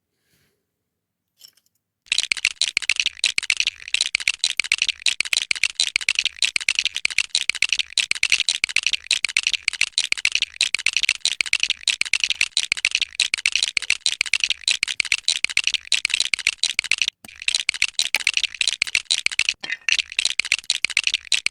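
Loose plastic Lego pieces rattling and clicking against each other, a dense run of sharp clicks starting about two seconds in, with one brief break near the end.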